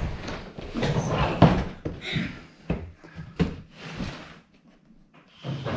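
Several separate knocks and thumps with rustling between them, then quieter near the end.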